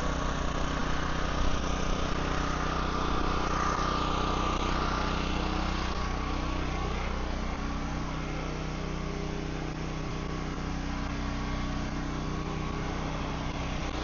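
An engine running steadily at idle, a constant hum.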